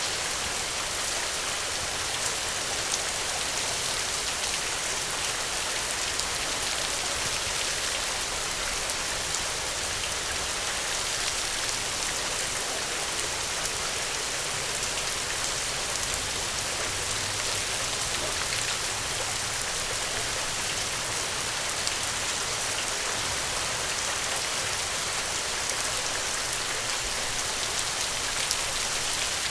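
Steady rain falling, a dense patter of many small drops hitting a surface, even throughout with faint individual drop ticks.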